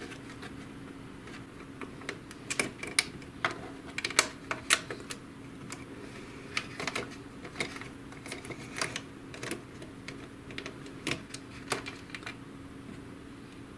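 Screwdriver undoing a small screw in the plastic pickup-roller assembly of an HP DeskJet GT 5820 printer, making irregular sharp clicks and taps of tool and plastic parts over a steady low hum.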